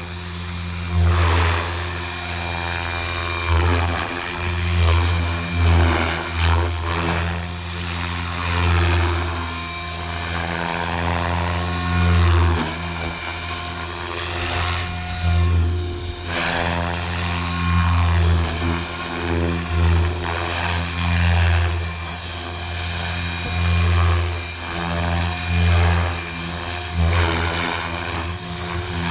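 Blade Fusion 480 electric RC helicopter in flight in stunt (idle-up) mode: a steady motor and rotor hum whose loudness swells and dips every second or two as the rotor loads up through manoeuvres.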